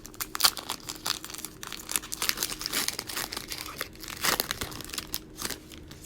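Crinkling and tearing of a plastic trading card pack wrapper being opened and handled, a dense run of small crackles that stops shortly before the end.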